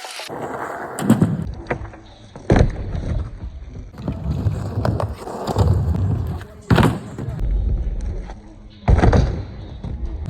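Skateboard wheels rolling and rumbling over a wet ramp, with three sharp board impacts about two and a half, seven and nine seconds in.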